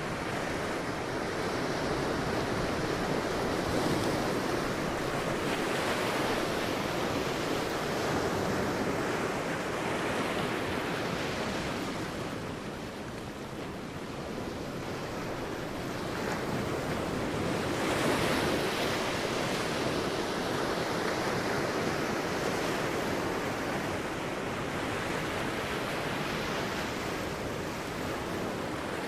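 Sea waves breaking and washing on a beach, the surf swelling and easing in slow surges, with a brief lull about halfway through.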